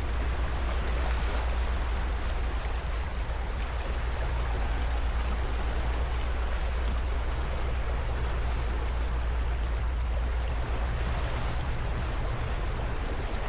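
Small motorcycle engine running steadily with a low hum, under heavy rushing wind noise on the microphone while riding.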